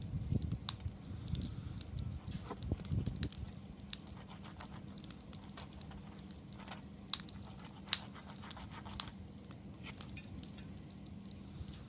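Wood fire crackling with irregular sharp pops, two louder pops about seven and eight seconds in, over a low rumble in the first few seconds.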